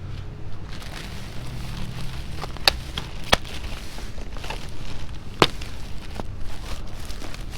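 Trash being handled and shifted in a dumpster: scattered sharp knocks and clatters, three of them loud, over a steady low rumble of wind on the microphone.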